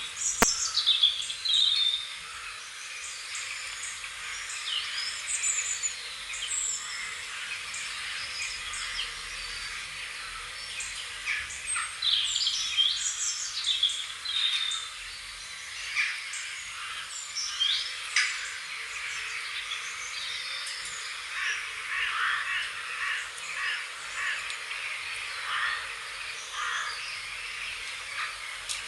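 Several small birds chirping and singing, with many short chirps and quick falling whistled notes, busiest about twelve seconds in and again a little past twenty seconds.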